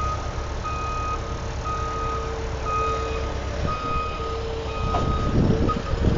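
Vehicle reversing alarm beeping steadily, about one half-second beep per second, over a low engine rumble; the beeping stops about five seconds in.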